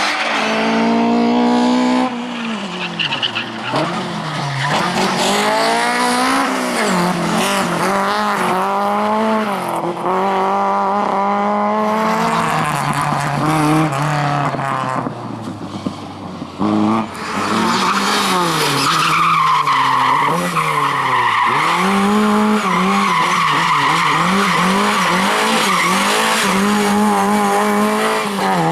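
Rally car engine driven hard, revs climbing and falling again and again through gear changes and lifts for corners, with tyres squealing and skidding. The engine briefly drops away about two-thirds of the way through before revving up again.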